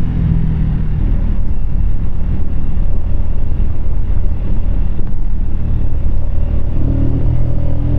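Keeway K-Light 125 motorcycle being ridden, its small V-twin engine running under a steady low rumble of wind on the microphone. The engine note fades back through the middle and comes back stronger near the end as the bike pulls again.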